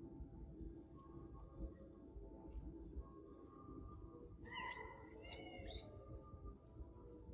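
A bird calling in the open: a short burst of quick, chirping calls about four and a half seconds in, with a few fainter chirps scattered elsewhere, over a low, faint outdoor rumble.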